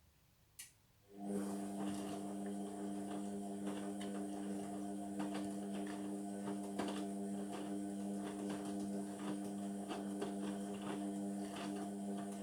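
Indesit washing machine's drum motor turning the drum at a steady tumble speed during the wash, a constant hum with the clatter and slosh of wet laundry, starting after a click about a second in and stopping suddenly near the end.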